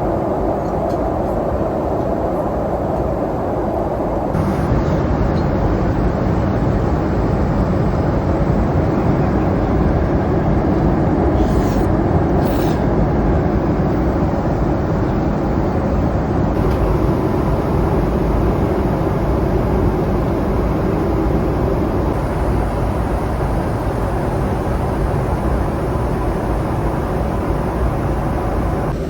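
Steady cabin noise of a Boeing 777-300ER airliner in flight, the constant rush of airflow and engines, its tone shifting slightly at cuts about 4 s in and again later. Two faint light clicks sound about 12 s in.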